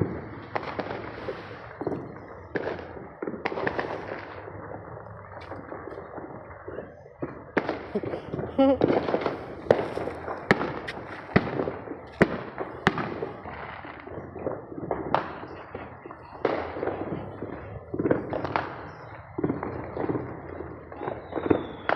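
Neighbourhood fireworks and firecrackers going off all around: irregular sharp bangs and pops, near and far, over a continuous background of distant ones. The bangs come thickest and loudest about a third of the way in, with another cluster near the end.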